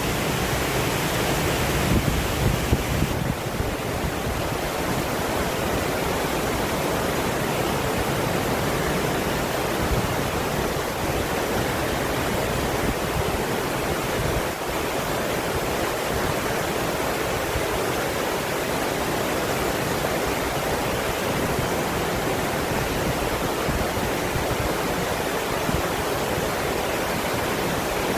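Waterfall pouring steadily, an even, unbroken hiss of falling water, with a few low bumps in the first three seconds.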